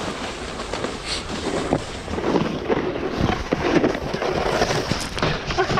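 Snowboard riding over hard snow: a steady scraping hiss broken by many crackling clicks.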